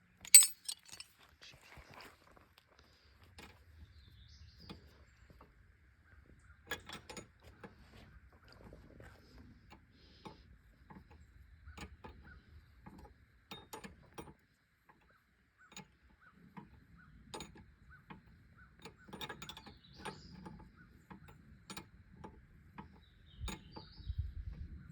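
Hand tools working on an excavator's hydraulic thumb cylinder: scattered metallic clicks, clinks and knocks, with one sharp clank just after the start.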